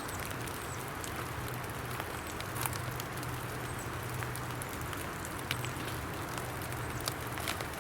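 Steady hiss of rain falling in woodland, with scattered sharp ticks and clicks through it.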